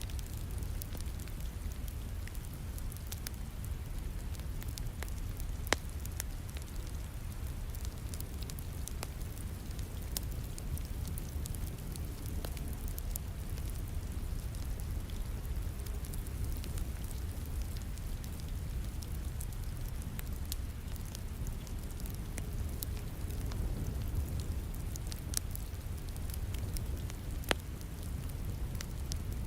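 Wood fire crackling in a fireplace, with scattered small pops and a sharper pop about six seconds in and again near the end, over the steady hiss and low rumble of falling rain.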